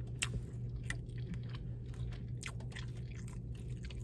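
A person chewing a mouthful of pizza close to the microphone: irregular small clicks and smacks of the mouth, over a steady low hum.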